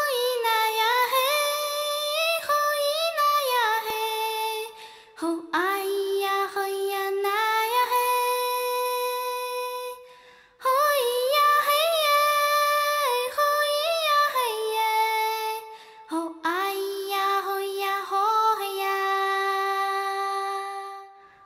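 A high voice singing a slow melody alone, in four long phrases of held, wavering notes with short breaks between them.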